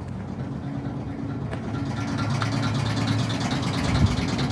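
Self-service aviation fuel pump running, a steady motor hum with fuel rushing through the hose into the airplane's tank; it grows louder and more hissy from about two seconds in.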